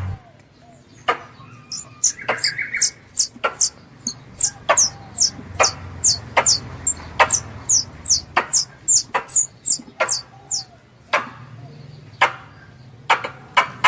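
Squirrel lure call: a rapid run of very high, short, downward-sliding chirps, about three a second, broken by a pause of a couple of seconds near the end. Sharp clicking calls sound roughly once a second throughout.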